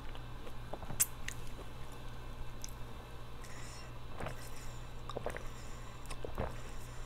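Close-up mouth sounds of eating: soft chewing and lip smacks, then swallows of water drunk from a plastic bottle, a few about a second apart in the second half.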